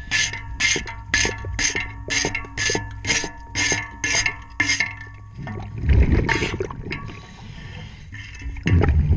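Underwater, a diver's pad or scraper rubs against a ship's propeller in rhythmic scraping strokes, about two a second, for the first half, over a steady hum. In the second half come two low, gushing water bursts.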